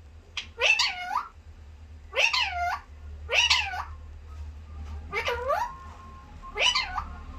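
Pet parrot making about six short calls, each a quick rise and fall in pitch, spaced a second or so apart.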